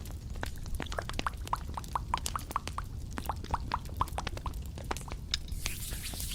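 A run of light taps and clicks held close to the microphone, about four a second in the middle, each with a faint ringing pitch, followed by a brief hiss near the end.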